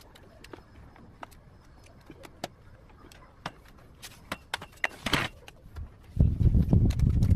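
Scattered light clicks and ticks from wire and pliers being worked on a plastic chair. Then, from about six seconds, a louder, rough, low scraping and rubbing.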